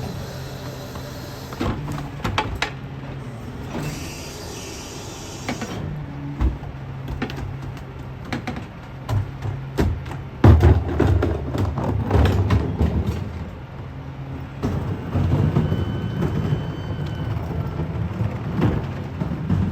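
Peterbilt 520 rear-loader garbage truck's diesel engine running steadily, with scattered knocks and clatter of refuse and bins. The loudest stretch of rumbling and clatter comes about ten seconds in, with more a few seconds later.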